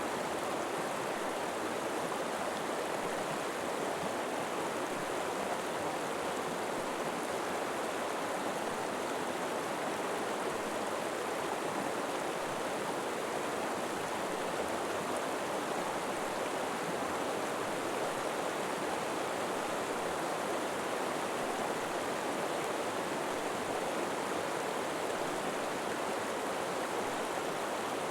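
River flowing steadily: an even rush of water with no changes.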